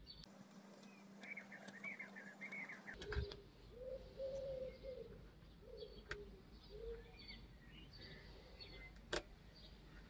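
Faint bird calls: high wavering chirps for the first few seconds, then a run of lower, repeated wavering calls. A few short sharp clicks, the loudest about nine seconds in.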